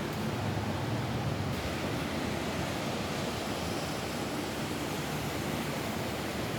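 Rain falling steadily on a roof, an even rushing noise.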